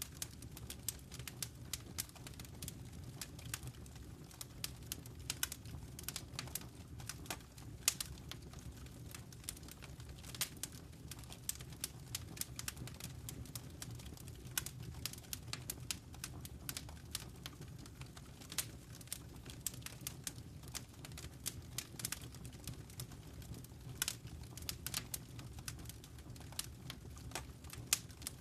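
Wood fire crackling in a fireplace: dense, irregular snaps and pops over a steady low background of burning.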